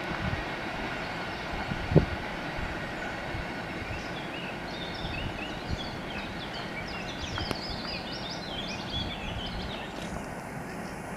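Receding passenger train's coaches: one last wheel-on-rail-joint clack about two seconds in, then a steady rumble that slowly fades as the train pulls away. Small birds chirp over it through the middle.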